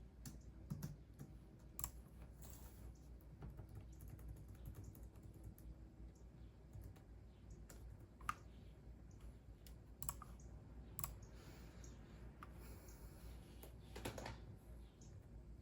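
Computer keyboard typing: quiet, irregular key clicks with a few louder keystrokes scattered through, over a faint low hum.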